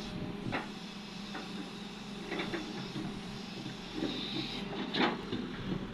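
Cat 330 excavator's diesel engine running steadily, with a few sharp knocks: one about half a second in, a pair around two and a half seconds, and the loudest about five seconds in.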